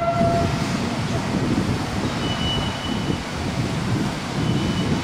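FS/RFI track-geometry diagnostic train rolling slowly into the platform, a steady low rumble of wheels and running gear. A train horn note cuts off about half a second in, and a brief thin high squeal comes around two seconds in.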